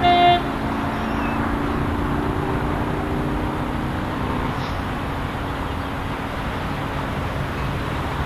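A train horn gives one short blast right at the start, then the steady rumble and low engine drone of a passenger train approaching in the distance.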